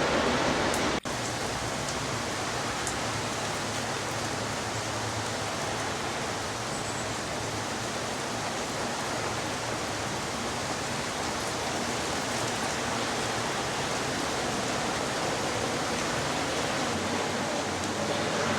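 Steady rushing hiss of wind and rain, even throughout, with a brief break in the sound about a second in.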